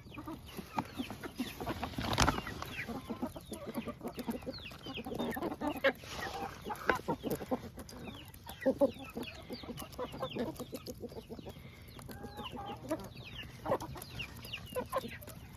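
A flock of chickens clucking and chirping in short, irregular calls as they eat scattered feed, with one sharp knock about two seconds in.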